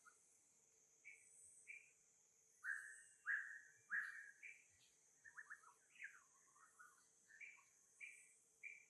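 Faint series of short, high chirping animal calls, some falling in pitch and a few in quick runs, loudest a few seconds in, over a steady high hiss.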